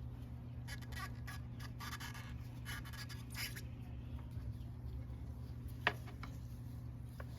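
Scratching and scraping of small metal parts being handled, from the motorcycle's clutch release mechanism being worked on, for a few seconds. Then a few sharp clicks, over a steady low hum.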